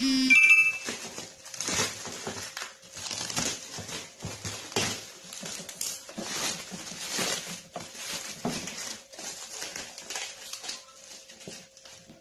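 Packaging being handled and pulled open: irregular crinkling and rustling of cardboard and plastic wrap, with a brief high-pitched sound at the very start.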